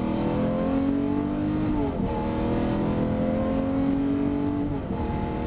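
Exotic sports car engine heard from inside the cabin, revving up under hard acceleration, its pitch dropping at upshifts about two seconds in and again near the end.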